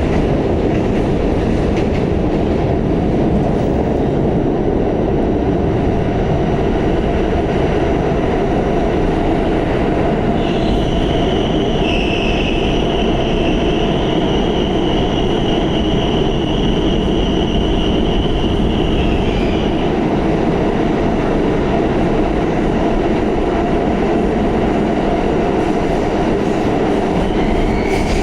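Pullman-Standard R46 subway car running steadily on the rails with a continuous low rumble. About ten seconds in, a high-pitched wheel squeal starts and holds for about nine seconds before it stops.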